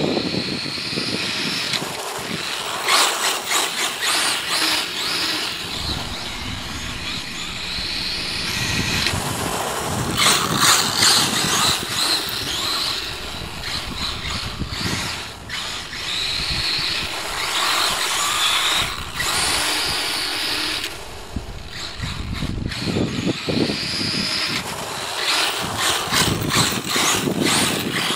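Kyosho DRX VE RC rally car's Castle Creations brushless motor and ESC, on a 3-cell LiPo, whining as it is driven hard. The pitch climbs and drops again and again as the car accelerates and backs off.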